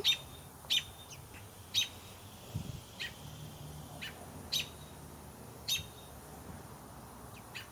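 Robin chirping: about eight short, high chirps spaced irregularly.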